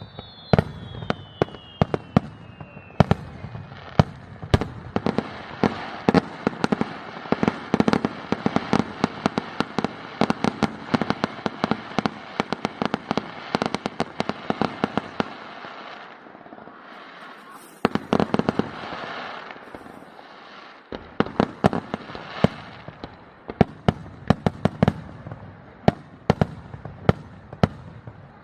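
Fireworks going off in quick, crackling bangs, with a whistle falling in pitch in the first few seconds. The bangs ease off for a few seconds past the middle, then pick up again.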